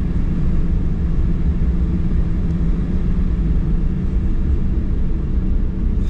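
Steady low rumble inside a Boeing 737-900's cabin while it taxis, its CFM56-7B jet engines running at low taxi power, with a few steady low tones in the drone.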